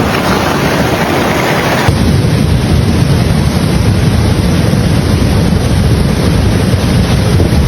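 Loud storm noise: wind rumbling on the microphone over rushing water. About two seconds in the sound changes abruptly and turns deeper and more rumbling.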